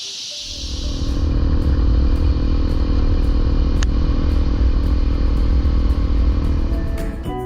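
Honda CRF250L's single-cylinder four-stroke engine running steadily; it comes in suddenly about half a second in. Music starts near the end.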